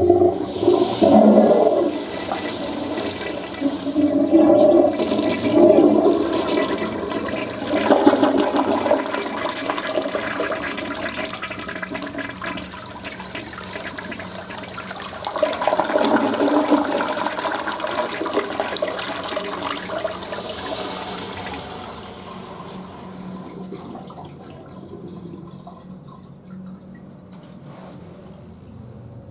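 Western-style toilet flushing: a loud rush of water with several gurgling surges for about twenty seconds, then settling to a quieter steady run of water near the end.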